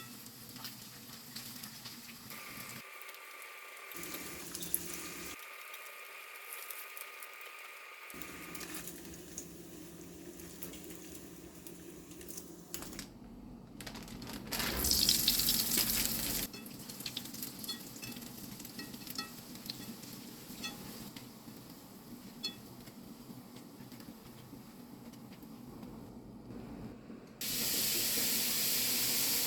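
Kitchen work sounds: a faint steady hum in the first several seconds, a tap running for about two seconds midway, then food starting to sizzle in a frying pan near the end.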